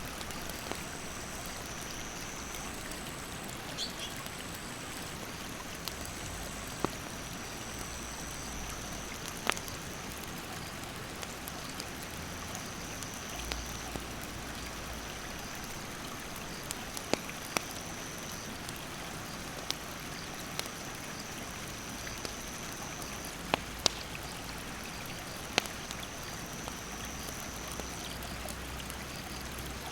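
Mountain stream rushing steadily, with a wood campfire crackling over it: sharp single pops every second or few.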